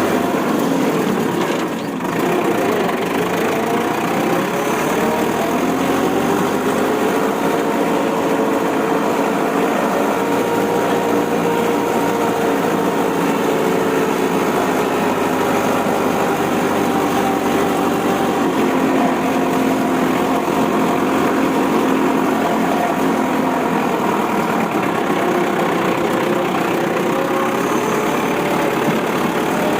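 Vehicle engine running steadily, its pitch rising slowly over the first ten seconds, sinking back through the middle and climbing again near the end. It briefly dips about two seconds in.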